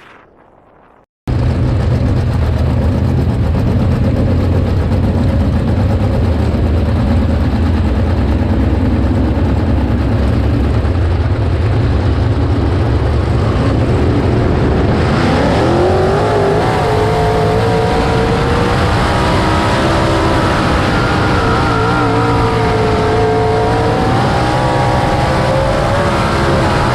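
410 sprint car's V8 engine heard on board as a heavy, steady rumble. About halfway in the engine note climbs, then holds high and wavers as the throttle is worked.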